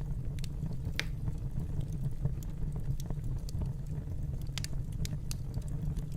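Wood fire in a fireplace crackling: a steady low rumble of flames with scattered sharp pops and snaps, the loudest about a second in and a cluster of several near the end.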